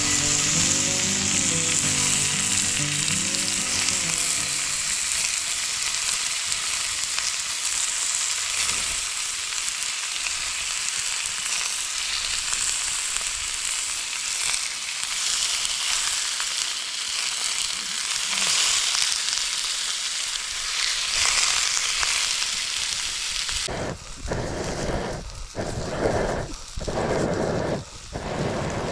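Lamb steak sizzling loudly and steadily as it cooks over a campfire. Near the end the sizzle turns uneven, coming in separate bursts with short gaps.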